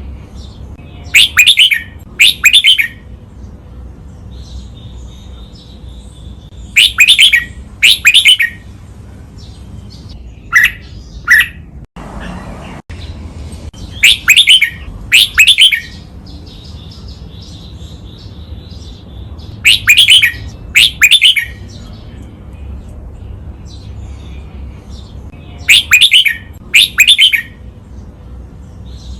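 Red-whiskered bulbul singing its loud, clear song phrase twice in quick succession, the pair repeating about every six seconds, with fainter chirping between the pairs. This is the doubled 'master' song used as a model for training caged bulbuls to sing.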